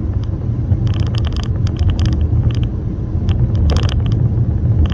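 Steady low road and engine rumble heard from inside a moving car, with irregular light clicks or rattles.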